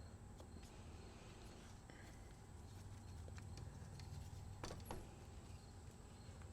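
Quiet low hum with a couple of faint sharp clicks about four and a half seconds in, from an Allen key working the e-bike's handlebar clamp bolts loose.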